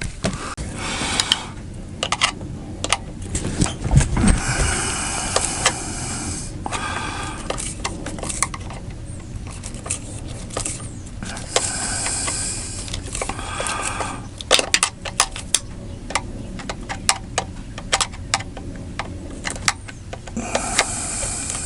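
Hands working with small metal tools and hose fittings: scattered clicks and clinks, broken by several short bursts of scraping and rubbing.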